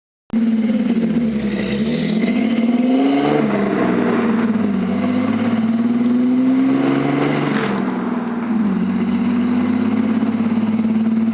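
Supercharged Ford Ranger 4.0 V6 running through Flowmaster 44 mufflers and an X-pipe. It starts a moment in, after a brief silent gap, climbs in pitch twice and drops back each time, then holds a steady note.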